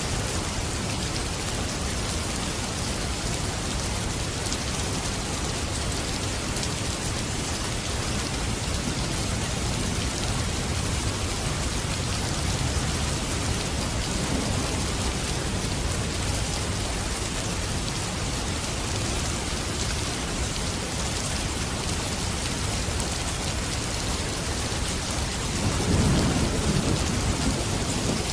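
Steady rain falling, with a low rumble of thunder swelling up near the end.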